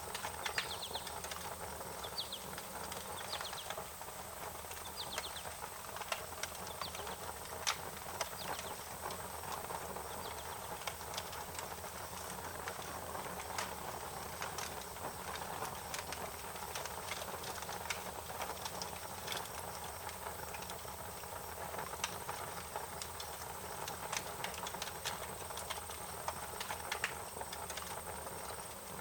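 Wood fire crackling: irregular sharp pops and snaps over a steady hiss. A few faint high chirps sound in the first few seconds.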